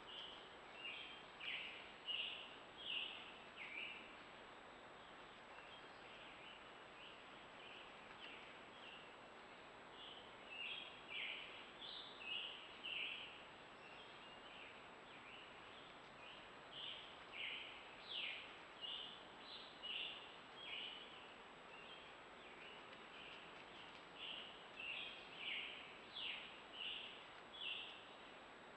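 A songbird singing: quick runs of short, high, down-slurred notes in four bouts with pauses between, faint over a steady background hiss.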